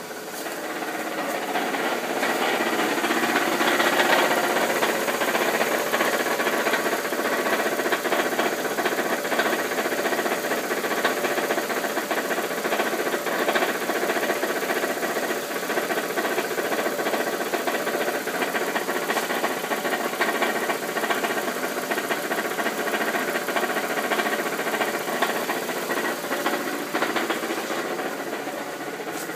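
2001 Ford Focus engine idling with a steady, rapid rattle from the belt area at the front of the engine, an idle-only noise whose cause the owner does not know. It grows louder over the first few seconds, then holds steady.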